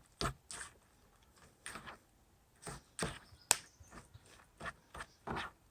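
Irregular clicks and scrapes of a utensil against a metal camping pot, with one sharper click about three and a half seconds in.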